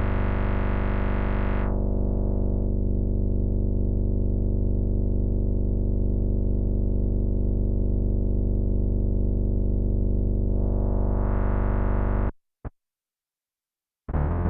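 Electric bass played through an MXR MB301 Bass Synth pedal: one long held low synth note whose filter closes to a dark, muffled tone about two seconds in, then sweeps open and bright again near ten seconds before the note cuts off suddenly. After a short blip and a pause, new short notes begin right at the end.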